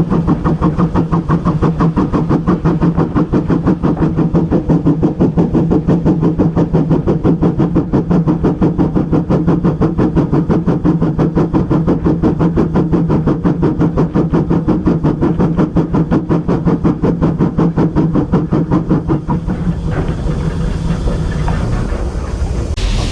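A railway locomotive running with a steady hum and a fast, even pulsing beat of about four to five pulses a second; the beat fades about three-quarters of the way through.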